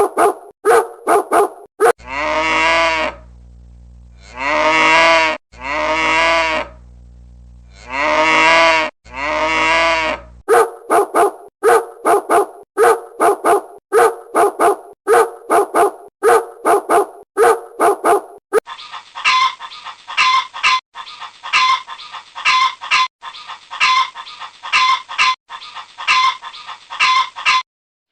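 A run of animal sound-effect clips. Quick repeated dog barking comes first. Four long, drawn-out pitched calls follow over a steady low hum. Then comes more quick barking, and near the end a different series of short repeated calls.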